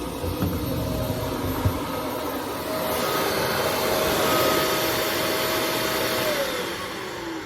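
Shark Navigator NV350 upright vacuum cleaner running with a steady motor whine. Near the end it is switched off, and its pitch falls steadily as the motor winds down.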